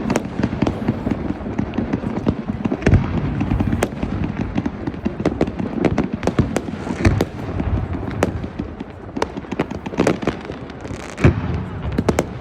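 New Year fireworks exploding continuously, a dense run of sharp crackles and bangs over a steady rumble, with several louder booms scattered through.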